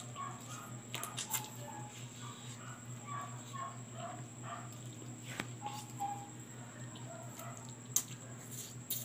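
Close-up chewing and lip-smacking of someone eating roast chicken off the bone with their fingers, with a few sharp clicks, over a steady low hum.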